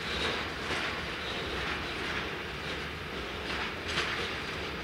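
A train rolling past on the track: a steady rumble with repeated sharp clicks of wheels crossing rail joints.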